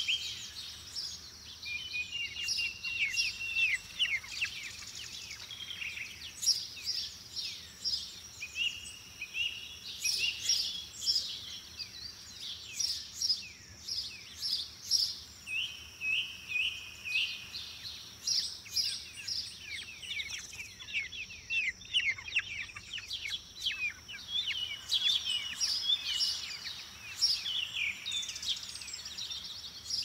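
Several songbirds chirping and trilling at once, a dense overlapping chorus of short high notes, with a steady high thin whine underneath.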